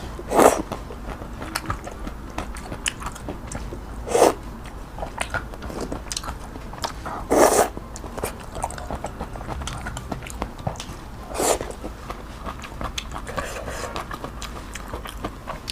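Close-miked eating of luosifen (snail rice noodles with its toppings): steady wet chewing and small crunches, with four louder bursts of eating noise spaced a few seconds apart.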